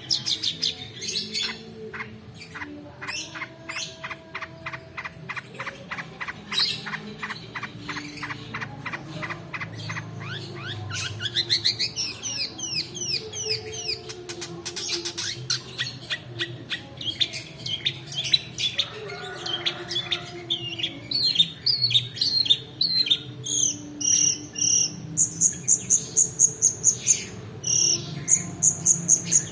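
Long-tailed shrike (cendet) song: rapid rolling trills of fast repeated notes, a run of quick rising sweeps about eleven seconds in, and loud, sharp, high paired notes repeating through the last few seconds.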